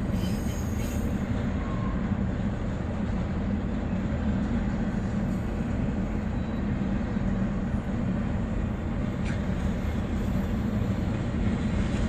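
Train running, a steady low rumble with no sudden changes.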